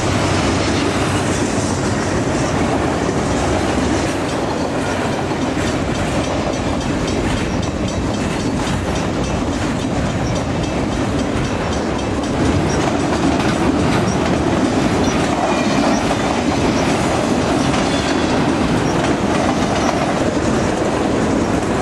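Freight train cars rolling past, covered hoppers and boxcars, their wheels clicking over the rail joints over a steady rumble.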